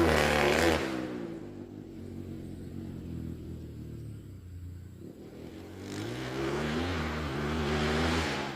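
Trail motorcycle engine revving, loud at first, then fading to a low hum for several seconds before growing loud again near the end.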